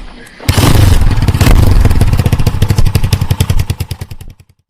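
Hero Xpulse 200 4V's single-cylinder engine running loudly with distinct, evenly spaced exhaust pulses, then shut off: the pulses slow and die away shortly before the end.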